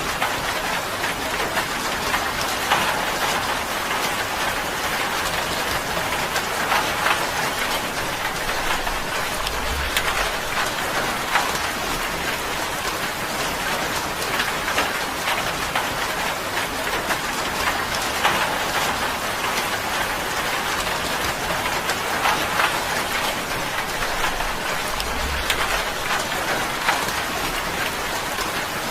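Steady rain drumming on a tin roof: a dense, even patter of drops striking metal sheeting.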